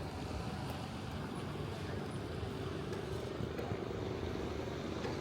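Steady low rumble of a car running or driving, with a faint held tone coming in about halfway through.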